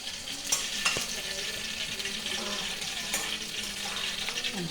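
Food sizzling as it fries in oil in a pan, with a steady hiss. A spoon being stirred through it knocks against the pan several times.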